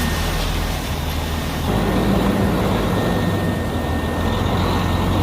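Dump truck engine running under way, its note getting a little louder and higher about two seconds in.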